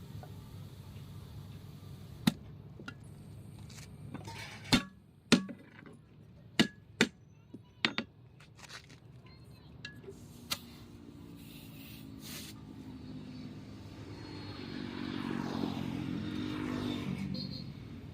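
A run of about seven sharp knocks, like tool strikes during tyre work, over a few seconds. Then a passing vehicle's engine hum swells, is loudest near the end, and fades.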